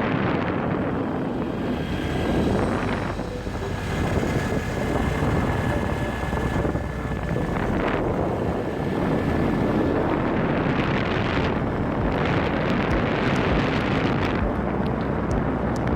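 A moving vehicle running steadily, with wind rushing over the microphone.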